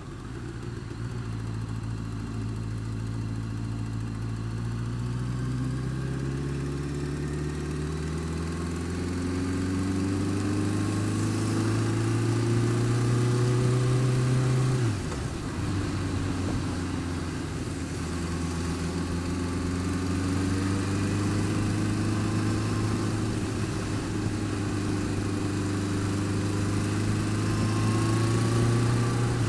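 Honda Fireblade's inline-four engine running under steady load, its pitch climbing slowly, dropping suddenly about halfway through, then climbing again.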